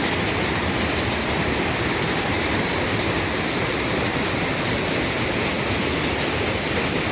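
Rushing mountain creek: a steady, unbroken sound of fast-flowing water.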